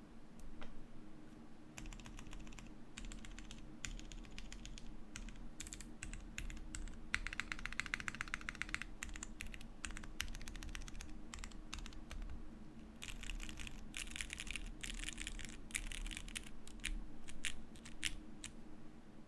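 Typing on a Pandora 60 gasket-mount mechanical keyboard with lubed Cherry MX Brown switches, a titanium plate and GMK keycaps. Separate keystrokes alternate with two runs of fast typing, one about seven seconds in and a longer one past the middle.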